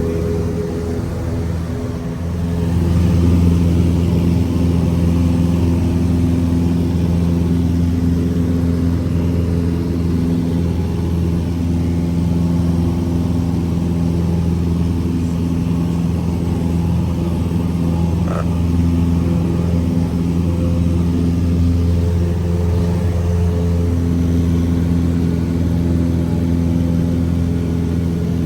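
Cessna 172's piston engine and propeller running steadily, heard from inside the cabin, growing louder about two and a half seconds in and then holding a constant drone.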